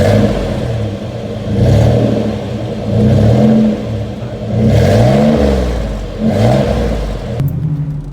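1995 Chevy Astro's 4.3-litre V6 exhaust through a Jegs muffler, revved about five times, the note rising and falling with each rev.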